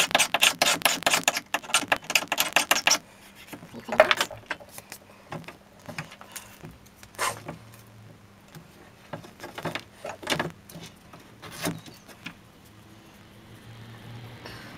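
Small workshop handling noises as double-sided carpet tape and small blocks are worked on a bench: a rapid crackling run for about three seconds, then a few separate light knocks and clicks.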